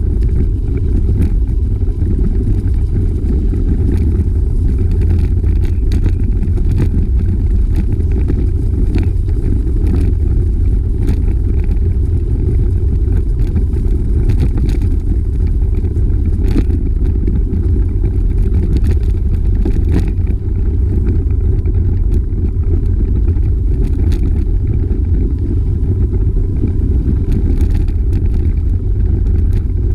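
Wind buffeting the microphone during a bicycle ride: a loud, steady low rumble, with scattered faint clicks.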